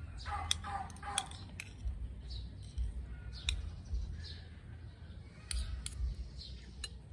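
Metal fork and spoon clinking and scraping against a plate while eating, a scattering of sharp clicks spread through.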